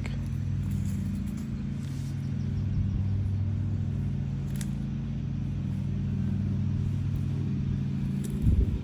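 Steady low engine-like hum, with a faint click partway through and a few thumps near the end.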